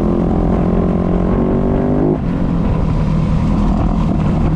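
Dirt bike engine running under throttle while riding a trail, its pitch edging up slightly before the steady note breaks off abruptly about halfway through, leaving a rougher, noisier engine sound. It is picked up loud and close by the GoPro's built-in microphone.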